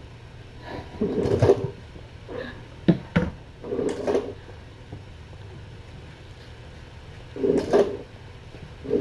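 Scattered rustling and knocking in short bursts from kittens at play, with two sharp knocks about three seconds in.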